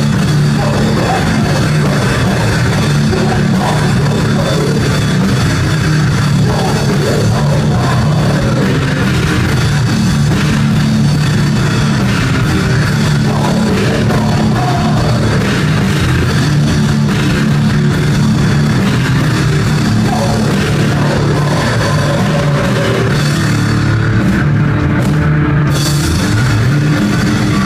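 Heavy rock music with a drum kit and distorted guitars, loud and unbroken.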